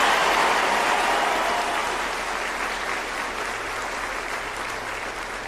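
Crowd applauding in a large arena, the clapping gradually dying down.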